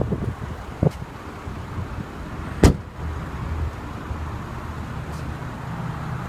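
Rear seatback release latches of a 2014 Mercedes-Benz C350's trunk being pulled: a light click about a second in, then a sharp, loud click near the middle, over a low steady hum.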